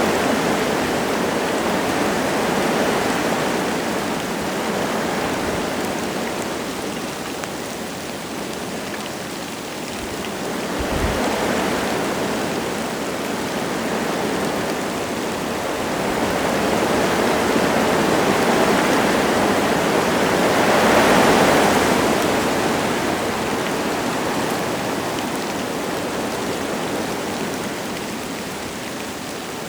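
Wind gusting through forest trees with light rain, a steady rushing that swells and fades in slow waves, strongest about twenty seconds in. A brief low thump comes about eleven seconds in.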